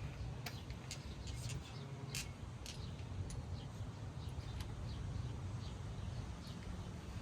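Hand-tool work on engine-bay nuts: scattered light metallic clicks and taps, irregular and about one or two a second, over a steady low hum.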